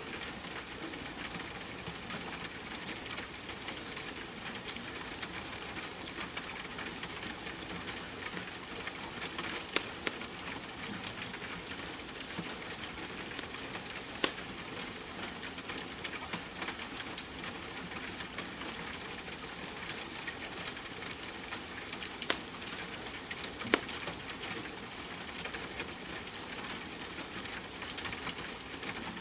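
Steady rain hiss mixed with a crackling wood fire: scattered sharp crackles throughout, with a few louder pops.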